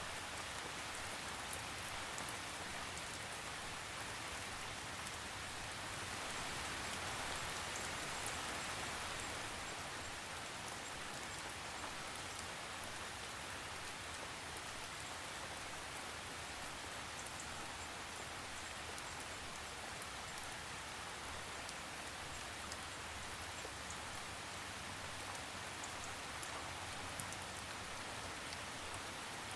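Steady rain falling, with fine patter of drops; it swells a little for a few seconds about a quarter of the way in.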